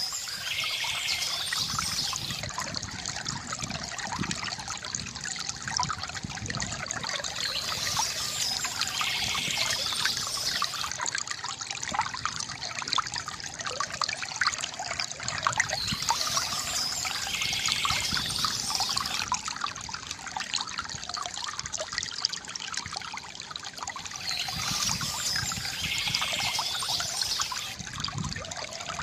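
Water trickling and pouring steadily from a bamboo fountain spout. A brighter, hissier layer returns about every eight to nine seconds.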